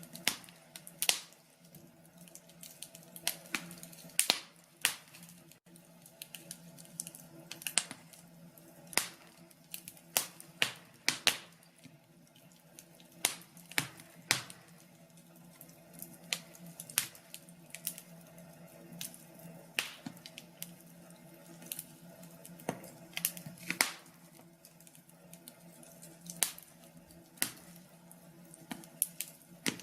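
Wood fire in a fireplace crackling: sharp, irregular pops and snaps, several a second, over a faint steady low hum.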